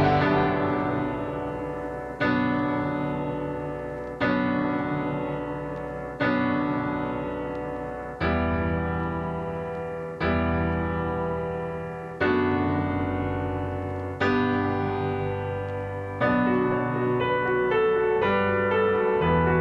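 Solo piano music: slow chords struck about every two seconds, each left to ring and fade, with a run of quicker notes near the end.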